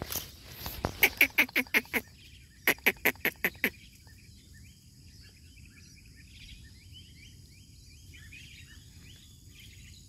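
A bird calling in two quick runs of loud, evenly repeated calls, about six a second, in the first four seconds; after that, only faint high twittering.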